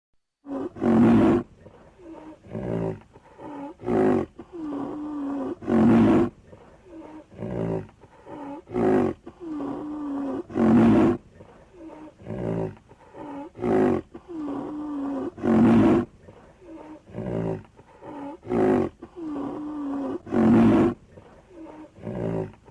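Rhinoceros calling: a loud call about every five seconds, with several shorter, quieter calls between them. The same sequence repeats evenly throughout.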